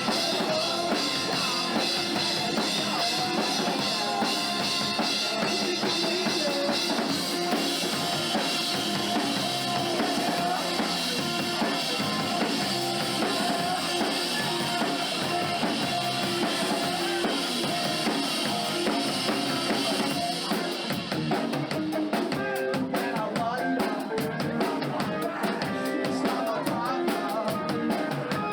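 Live rock band playing an instrumental passage with the drum kit to the fore. About three-quarters of the way through, the high hiss drops away and sharp, rapid drum strokes stand out.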